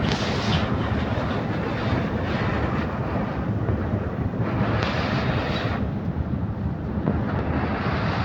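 Asphalt mixing plant machinery running: a steady, loud mechanical rumble with a brighter hissing surge about halfway through.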